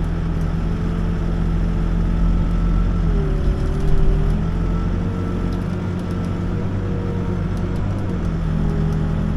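Backhoe's diesel engine running steadily, its note dipping briefly about three seconds in and again near the end.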